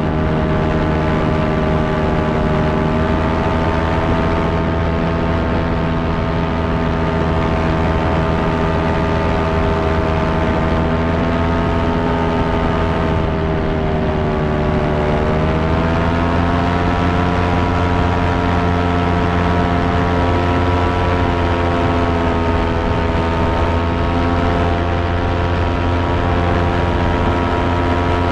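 Fan motor running with a steady humming drone. Its pitch sags a little about halfway through, then rises and holds slightly higher.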